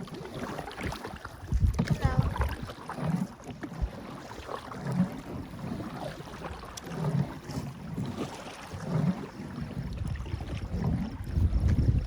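Canoe being paddled on a river: paddle strokes in the water recur about every two seconds, with wind rumbling on the microphone.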